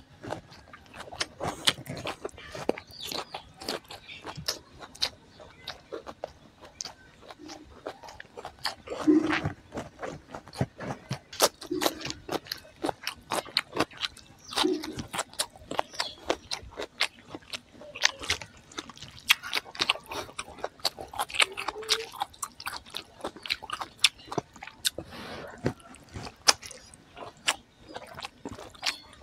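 Close-miked chewing of a mouthful of rice, curry and greens eaten by hand: a dense run of quick wet smacks and clicks from the mouth, with a few short low hums between them.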